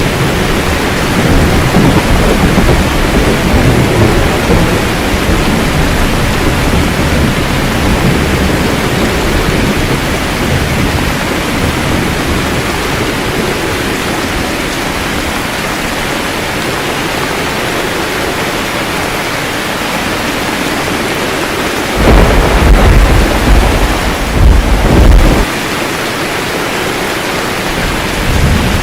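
Steady rain with thunder. A low rumble fades over the first several seconds, then a louder thunder rumble rolls for about three seconds near the end and stops suddenly.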